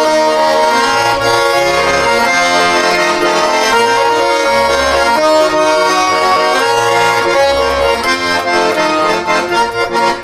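Accordion playing an instrumental interlude of a traditional-style song: held chords over a bass line that changes about once a second.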